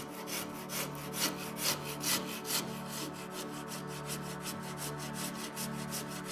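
A hand tool worked over wood in quick, even back-and-forth strokes, a few of them louder in the first half, over soft background music.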